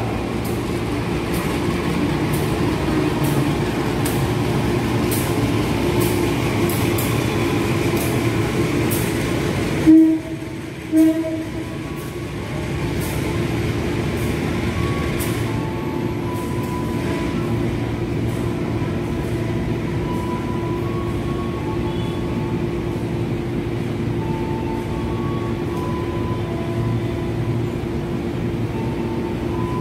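Diesel-hauled Menoreh intercity passenger train rolling slowly through the station: a steady rumble with irregular clicks of wheels on the rails, and two short horn blasts about a second apart roughly ten seconds in.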